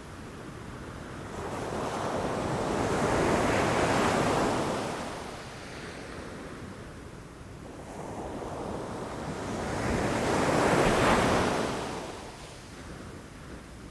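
Ocean waves washing in against rocks, two swells of surf noise that build and fade, the louder about eleven seconds in, with some wind on the microphone.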